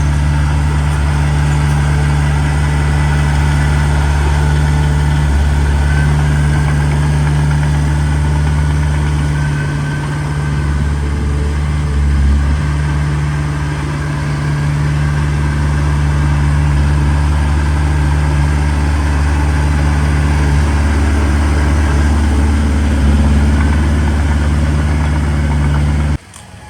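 Heavy earthmoving machine's diesel engine running steadily with a deep, even drone, which cuts off suddenly just before the end.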